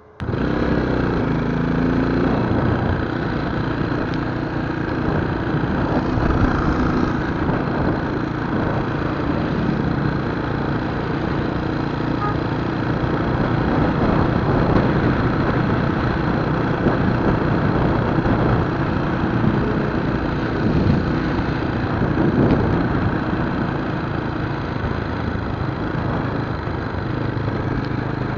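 Scrambler motorcycle engine running steadily, starting suddenly and holding an even level.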